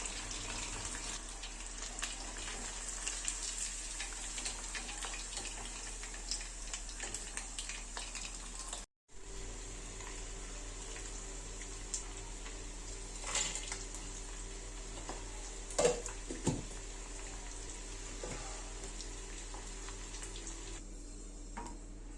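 Chicken frying in hot oil: a steady sizzle with small crackles. It breaks off for a moment about nine seconds in, then goes on more evenly, with a few knocks of a utensil against the pan.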